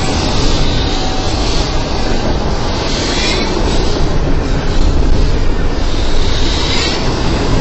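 Double-stacked intermodal freight cars rolling past, a loud steady rumble of steel wheels on rail.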